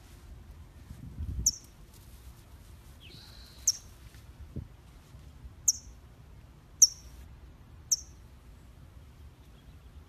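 A bird calling: five short, sharp high chirps, each dropping in pitch, spaced a second or two apart.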